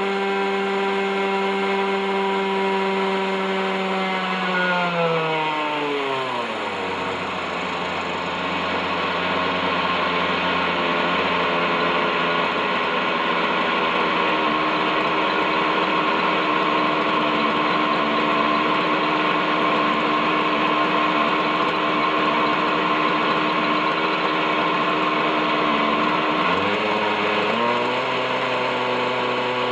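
OS 61SF two-stroke glow engine of an RC helicopter running steadily, then throttled down over a few seconds to a low idle, held there for about twenty seconds, and throttled back up near the end. The engine had been seized for decades and its bearings are rusty, which the owner says adds resistance.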